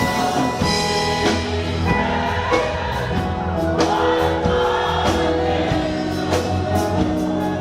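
Live gospel worship music: a church band plays held chords with drums under, and voices sing along.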